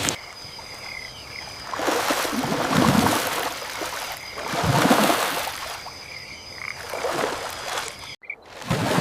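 River water washing in slow swells about every two to three seconds, with faint high-pitched wildlife calls between them. The sound cuts out abruptly for a moment near the end.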